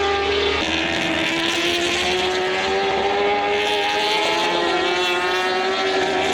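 Superbike racing motorcycle engines running hard at high revs on track. The pitch steps down slightly about half a second in, sags slowly, then rises again near the end.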